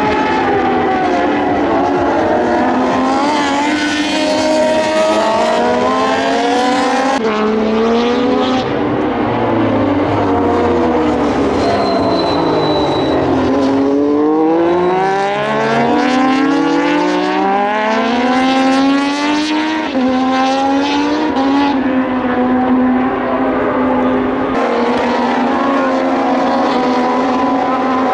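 Several Moto2 racing motorcycles, Triumph 765 cc three-cylinder engines, going past at racing speed, their notes overlapping and rising and falling as the bikes accelerate, change gear and brake.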